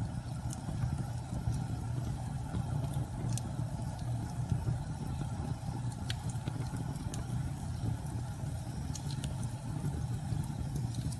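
Steady low rumble of storm wind, with scattered light crackles from a wood fire.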